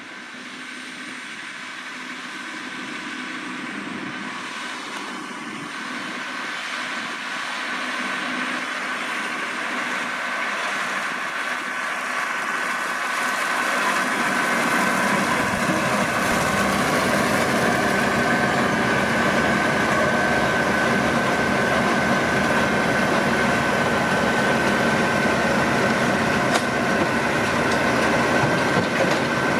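Massey Ferguson 7620 tractor pulling a McHale V660 round baler: the engine and baler run steadily with a high, even whine. The sound grows louder over the first half, as if the rig is coming closer, then holds level.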